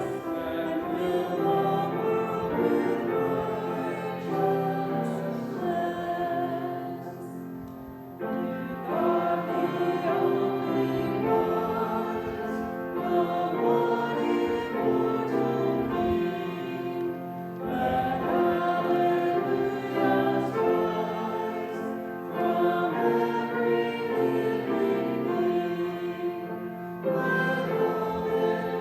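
Congregation singing a hymn in phrases, with brief pauses between them.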